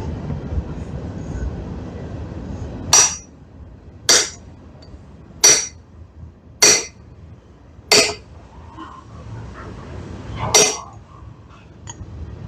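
Six light hammer blows on a hot railroad-spike axe head at the anvil, each a sharp ringing clank, about one a second with a longer gap before the last; the blows are straightening the piece. A steady low rumble fades just before the first blow.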